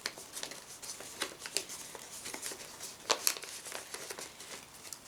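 Paper and plastic rustling and crinkling as a pocket letter and its small paper items are handled, with scattered light crackles and taps; the sharpest comes about three seconds in.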